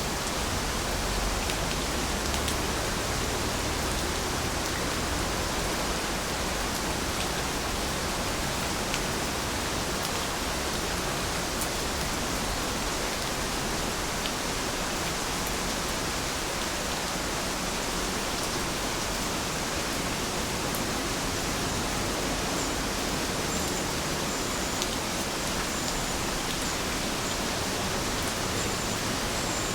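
Steady, even rain with scattered small drop ticks, and a faint high chirping in the last few seconds.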